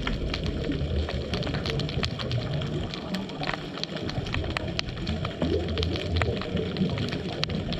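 Underwater ambience heard through a GoPro housing: a low bubbling rumble that eases off for about a second near the middle, with scattered sharp clicks and crackles throughout.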